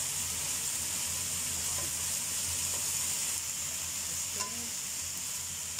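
Bean sprouts sizzling steadily in hot oil in a wok as they are stirred and tossed with a spatula.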